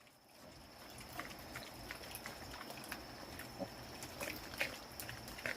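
Faint farm livestock sounds with scattered short clicks and rustles, over a steady high thin tone.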